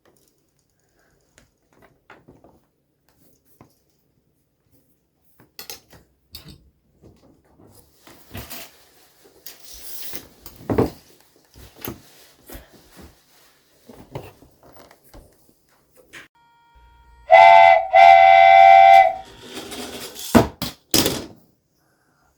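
Scattered clicks and knocks, then a loud whistle blown in two quick toots lasting about two seconds together, followed by a couple of sharp knocks.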